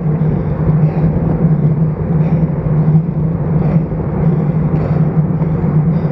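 Steady rushing wind and road noise picked up by an action camera mounted on a road bike's stem while riding, with a constant low hum under it.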